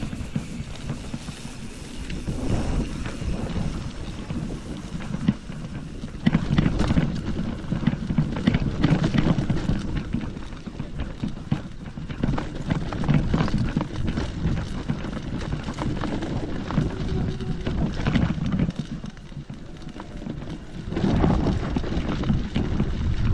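Footsteps along a hiking trail, irregular knocks and scuffs, with wind rumbling on the microphone.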